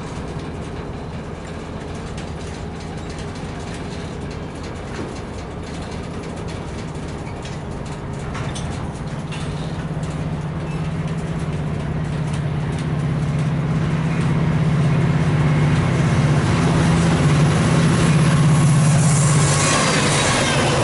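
A freight train's cars rolling by on a far track, under a diesel locomotive's steady hum that grows louder from about eight seconds in as a Metra commuter train approaches. Near the end the Metra locomotive and its coaches pass close, and loud wheel and rail noise rises sharply.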